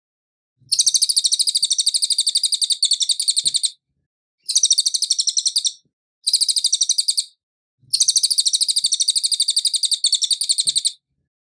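Cililin bird singing four bursts of rapid, high, repeated-note trills, separated by short pauses. The first and last bursts are about three seconds long.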